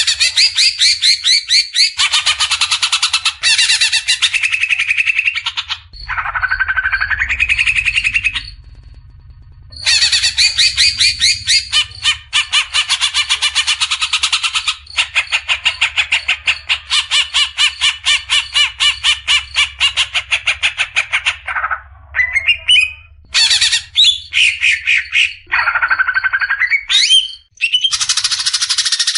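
Cucak ijo (green leafbird) giving its 'besetan' call: long, rapid runs of harsh, clipped notes, many a second. The runs are broken twice by shorter gliding whistled phrases. This is the aggressive rattling chatter that bird keepers play to tutor their own birds.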